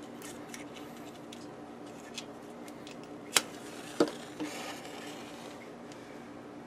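Matches being struck: two sharp strikes about half a second apart a little past the middle, the second followed by a short hiss, over a steady faint hum.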